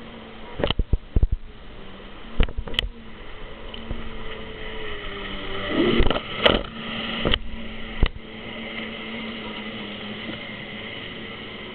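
Jet ski engine running with a steady hum that shifts in pitch around the middle, with several sharp knocks scattered through it.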